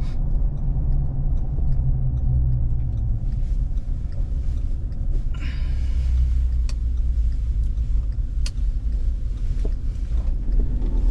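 Car driving along a road, heard from inside: a steady low engine and road rumble, with a couple of short light knocks partway through.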